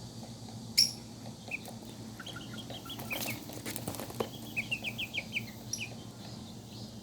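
Young chickens peeping in quick runs of short, high chirps over a low steady hum, with a sharp tap about a second in.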